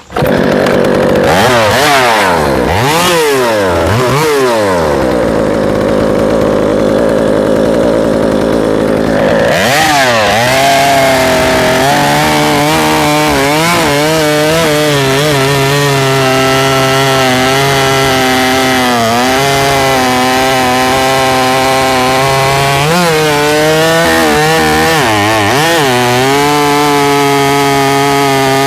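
Large 90cc-class two-stroke chainsaw revved up and down a few times, then held at full throttle. About ten seconds in its pitch drops as it bites into a log and runs on under load, sagging briefly now and then as the cut bogs it.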